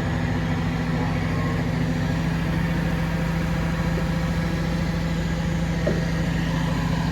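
Bucket truck's engine idling steadily, running to drive the boom hydraulics while it lifts a beam.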